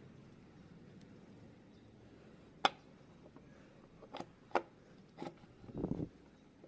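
A few sharp clicks or taps spread over a couple of seconds, followed near the end by a short muffled rumble of handling noise.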